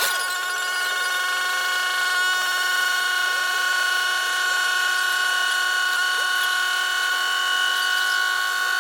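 Car engine held at high, steady revs, a constant high-pitched whine with no change in pitch.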